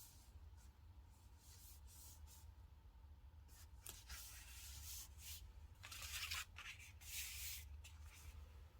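Faint rustling and scraping of paper and stickers being handled on a diary page, in a few short strokes, the loudest a little past halfway.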